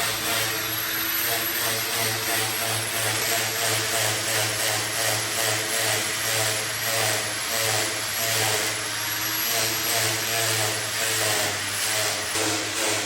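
A power tool running steadily with an even pulsing beat, over a low hum and a faint high whine.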